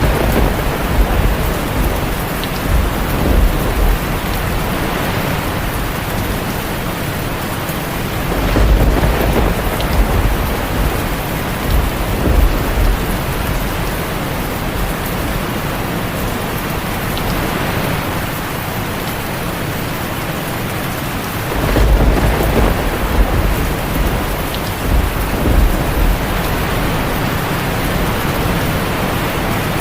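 Heavy rain falling steadily on a tin roof. Thunder rolls in three times: at the start, about nine seconds in, and again about twenty-two seconds in, each a deep rumble lasting a few seconds.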